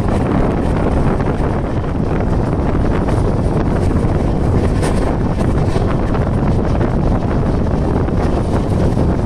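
Loud, steady wind rushing over the microphone together with the rumble of an LHB passenger train running on its track, heard from an open coach doorway.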